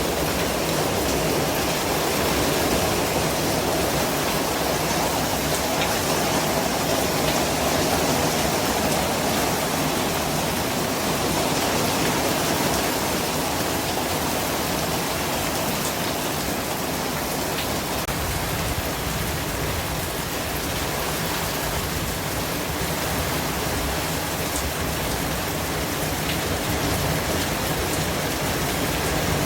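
Steady white noise: an even, unchanging hiss across all pitches, with no rhythm or tone.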